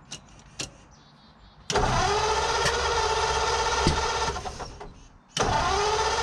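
The starter cranks the 1940 Ford's flathead V8, winding up quickly and then turning over with an even pulse without the engine catching. It cranks for about three seconds, stops, and cranks again about five seconds in, part of chasing a no-start fault in the ignition.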